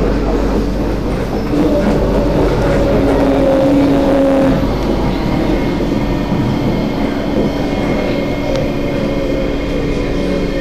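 SMRT C751B electric train running, a steady noise with several held tones in it.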